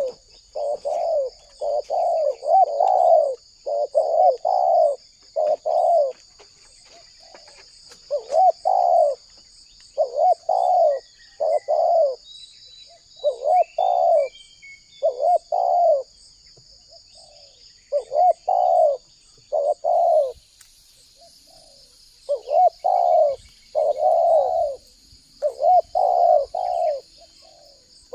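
Spotted dove cooing, a string of short coo notes in groups separated by pauses of a second or two. A steady high insect drone runs behind it, and a few faint chirps of another bird come about halfway.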